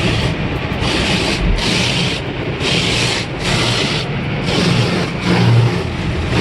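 Automatic tunnel car wash scrubbing the car, heard from inside the cabin: rhythmic swishes, about one a second, over a steady low rumble of machinery.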